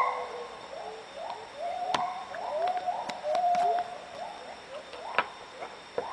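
Gibbons singing: a steady run of short rising hoots, with a few longer held notes about halfway through, and a few sharp clicks among them.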